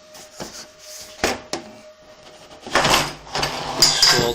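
Handling noise: three sharp knocks in the first second and a half, then a louder stretch of clatter and rubbing from about two-thirds in.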